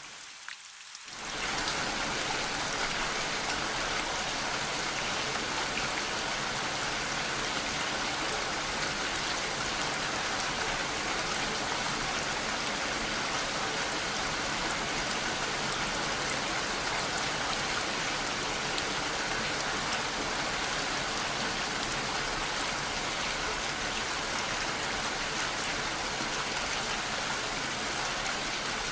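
Steady rain, an even hiss of falling drops with no other sounds. It dips briefly in the first second, then comes back up to full level and holds steady.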